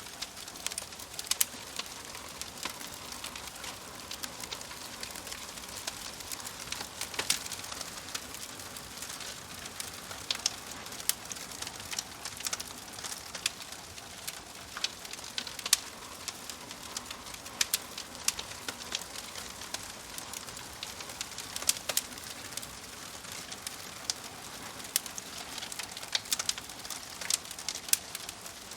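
Wood fire crackling: a steady soft hiss broken by frequent, irregular sharp pops and snaps.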